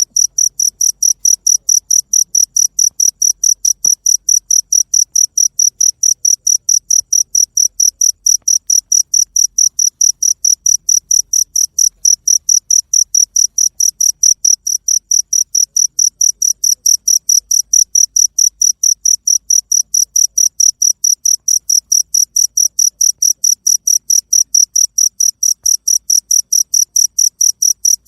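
Cricket chirping: one high-pitched chirp repeated at a steady, even rate several times a second, without a break.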